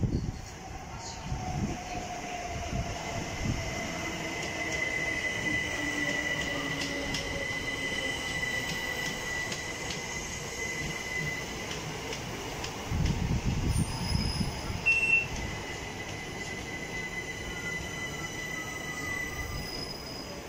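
Southern passenger train slowing along the platform. A steady high-pitched brake squeal runs through most of it, over a whine that falls slowly in pitch as the train decelerates and a constant rumble of wheels on rails. There is a burst of heavier rumble about two-thirds of the way through.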